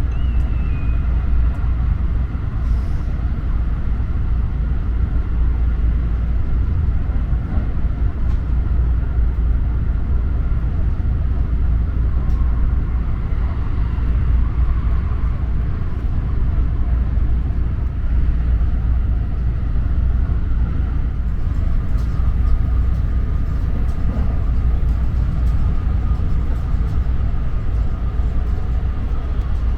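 JR Super Rapid electric train running at speed, heard from inside the carriage: a steady low rumble of wheels on the rails with a faint steady whine above it.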